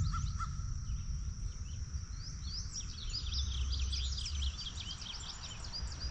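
Birds chirping in quick overlapping calls, thickest in the middle, over a steady high-pitched insect drone and a low rumble.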